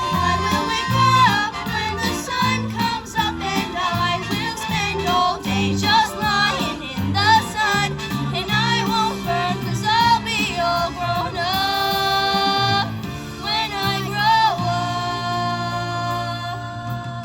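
Music: a singing voice with backing accompaniment, the melody moving quickly and then settling into long held notes with a slight waver near the end.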